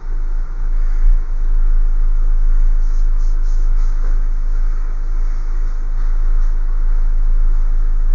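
Hair dryer blowing steadily, a loud even rush of air over a strong low rumble.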